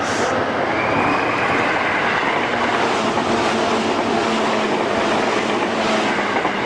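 Train noise at a station: a steady rumble of rail cars, with a faint high squeal starting about a second in.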